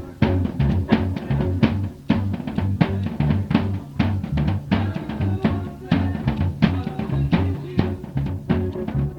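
Live rock band jamming, with a drum kit to the fore: frequent kick and snare hits and rolls over a stepping bass line.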